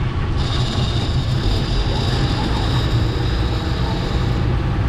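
Fishing boat's engine running while under way, a heavy low rumble with wind buffeting the microphone. A thin high whine joins about half a second in.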